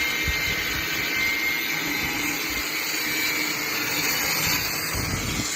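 LiuGong CSH1100A-25D portable diesel screw air compressor running, a steady loud rushing noise with a faint high whine held throughout.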